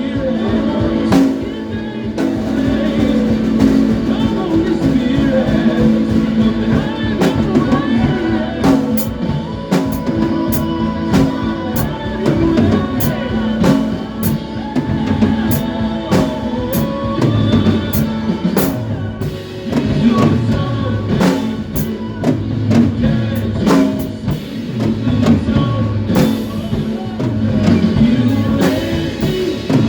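Live band music with a drum kit playing, its cymbal and drum strokes coming at a regular beat over a full, steady band sound.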